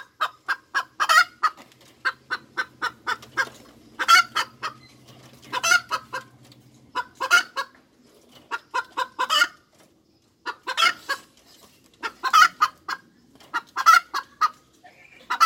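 Domestic hen cackling: repeated runs of quick short clucks, each run ending in a louder drawn-out squawk, coming about every second and a half.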